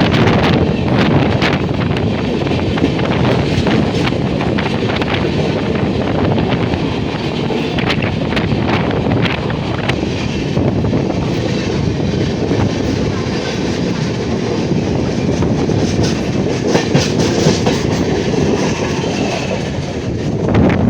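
Train running on the rails, its wheels clicking over rail joints above a steady loud rumble.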